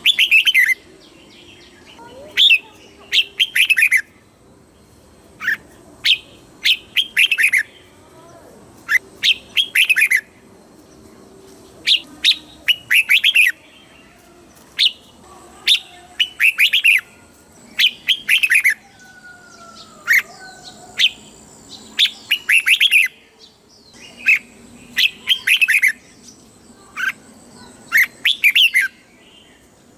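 Red-whiskered bulbul singing: short phrases of quick, clear whistled notes, repeated every second or two.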